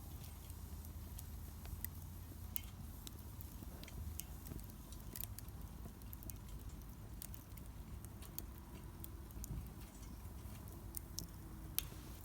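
Wood fire crackling in a Solo Stove Campfire, with irregular sharp pops and snaps over a low steady rumble.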